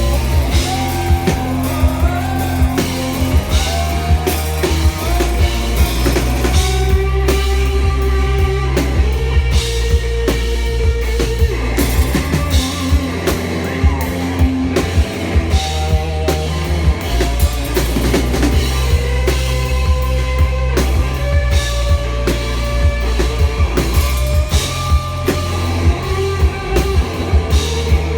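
A live rock band playing loudly: drum kit, bass and electric guitar, with a heavy, boomy low end. It is recorded on a phone's microphone in the crowd.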